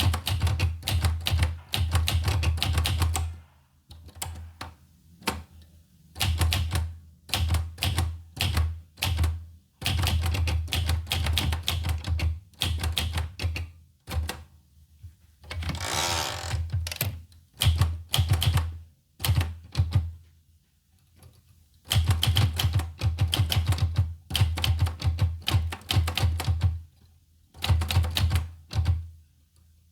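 Olivetti Lettera 25 manual portable typewriter being typed on: quick runs of key strikes in bursts of a few seconds with short pauses between them, and a longer smooth rasp about halfway through.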